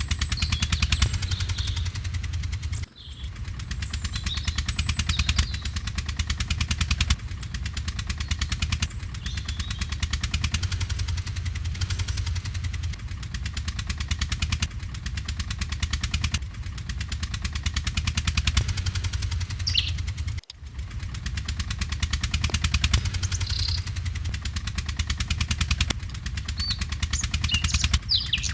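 Radio-controlled model tractor running with a fast, even mechanical pulsing, briefly cut off about 3 and 20 seconds in. A bird chirps a few times.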